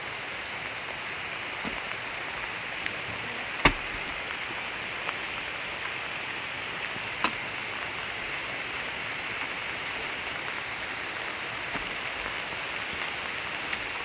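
Steady hiss of rain falling, with a few sharp knocks, the loudest about three and a half seconds in and another about seven seconds in.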